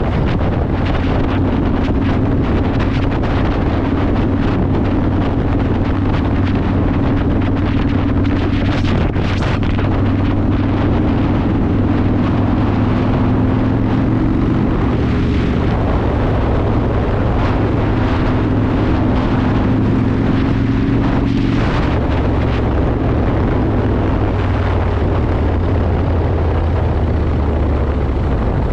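Yamaha Warrior 1700's air-cooled V-twin with a custom exhaust running at a steady cruise, with wind rushing over the microphone. Two brief whooshes come through, about a third of the way in and again about three-quarters in.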